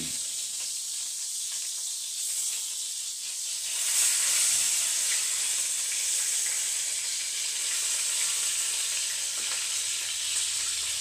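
Beef burger patties frying in hot grease in a skillet, a steady high sizzle that grows louder about four seconds in.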